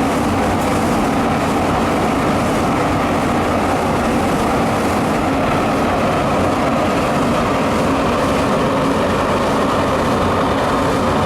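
Biomass sawdust burner running under its blower fan: a loud, steady rushing noise that does not change.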